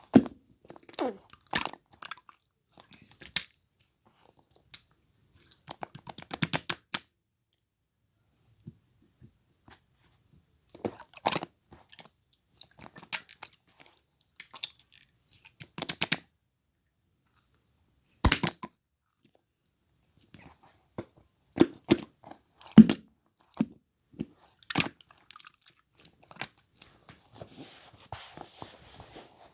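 Two-tone slime being squeezed and played with by hand, making clusters of wet clicks and pops with short silent pauses between them.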